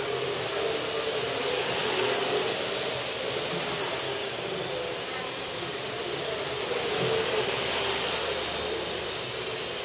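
Parrot AR.Drone 2.0 quadcopter in flight: its four electric motors and propellers give a steady high whine over a rushing hiss, swelling louder about two seconds in and again near the end.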